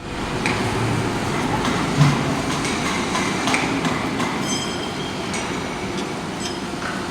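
Steady industrial din of an induction steel-melting shop, with scattered metal clanks and knocks, the loudest about two seconds in. A brief high metallic ringing comes about four and a half seconds in.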